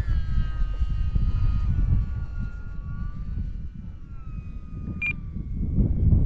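Small electric RC plane's motor whining as it flies a circuit, its pitch slowly falling, over heavy wind buffeting on the microphone. A short high beep about five seconds in.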